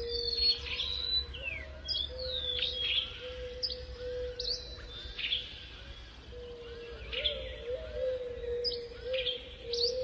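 Several small birds chirping and calling over one another in a morning chorus: many short, sharp high notes, some sweeping up or down. A steady, slightly wavering lower tone runs underneath.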